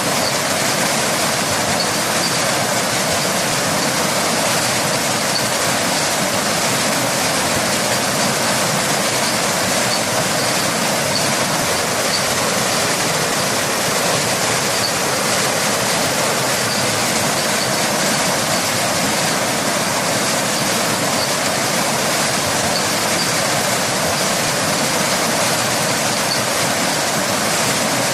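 Waterfall and rain: a steady, unbroken rush of falling water that holds the same level throughout.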